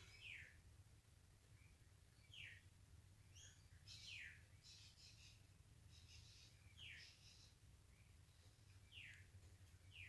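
Near silence with a faint bird calling in the background: a short chirp falling in pitch, repeated about five times at uneven gaps of one to three seconds, with a few fainter higher chirps in between, over a steady low hum.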